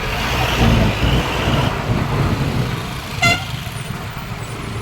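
Road traffic rumbling, with one short, high horn toot a little over three seconds in.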